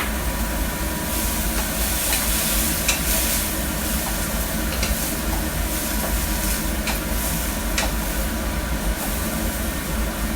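Broccoli and mixed vegetables sizzling in a hot pan as they are stir-fried, with a few sharp ticks of the spatula against the pan, over a steady low hum.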